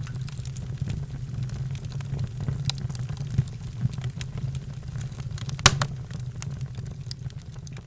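Wood fire in a fireplace crackling over a low steady rumble, with scattered pops and one loud pop a little past the middle.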